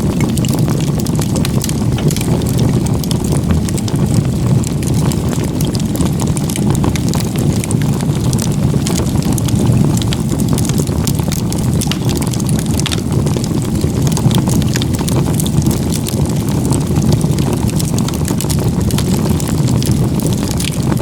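Firewood stacked in a crib (igeta-gumi) burning hard: a steady low roar of flames with frequent sharp crackles and pops throughout.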